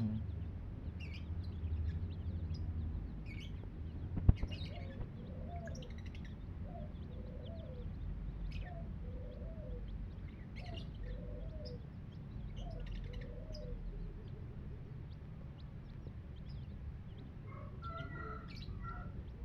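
Small birds chirping with short, scattered high calls, while another bird repeats a low call about once a second for several seconds, over a steady low rumble. One sharp click about four seconds in.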